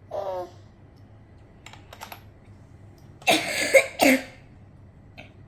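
A few light clicks of small toy pieces being handled, then a loud rough burst lasting about a second, like a cough, a little past the middle; a child's brief voice sounds at the very start.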